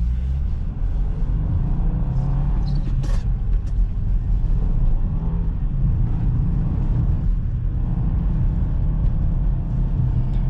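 Subaru WRX's turbocharged flat-four engine running as the car drives up a snowy mountain road, a steady low engine and road rumble with a brief rise in engine note about two to three seconds in.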